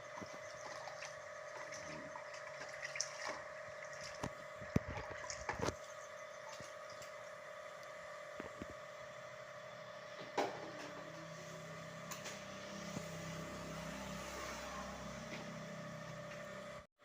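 Water running during the rinsing of refrigerator parts, with a steady hum and a few sharp knocks of handled parts, the loudest cluster a few seconds in and one more knock about ten seconds in.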